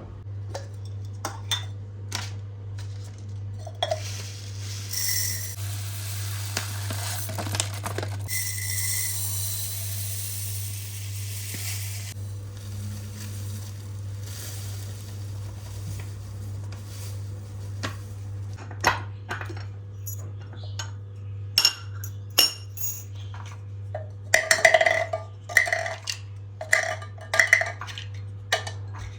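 Dishes and glass containers being handled and set down, with scattered knocks and ringing clinks that bunch together near the end, over a steady low hum. A stretch of hiss runs for several seconds in the first half.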